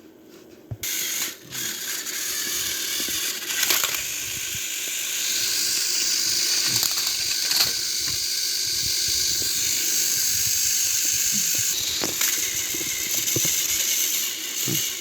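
Battery-powered Trackmaster toy train motors whirring steadily with gear clatter and occasional clicks. The sound cuts in abruptly just under a second in, after a brief near-silence.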